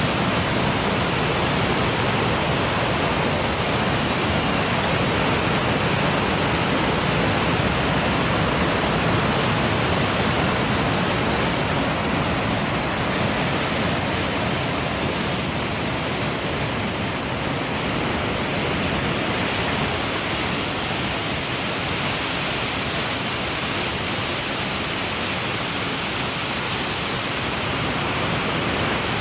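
Waterfall rushing: a steady, loud hiss of falling water with no break, easing slightly in the second half.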